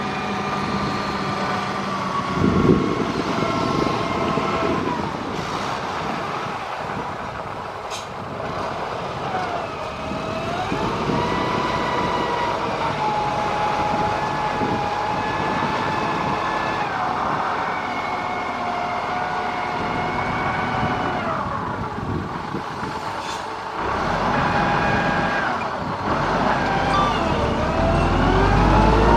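A motor grader's diesel engine working, with a whining pitch that holds steady for stretches and dips and rises again several times as the load changes.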